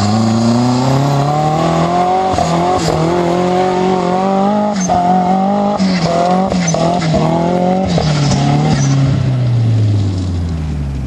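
Pro-Lite off-road race truck engine being driven hard, revving up and dropping sharply again and again, then falling in pitch near the end as it slows.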